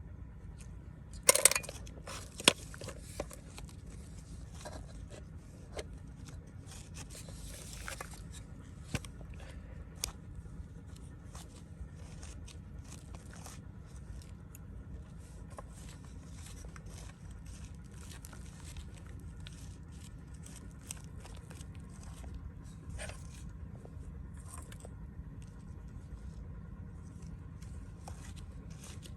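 Intermittent scraping and crunching with scattered clicks and a few sharp knocks, the loudest about a second and a half in, over a steady low rumble.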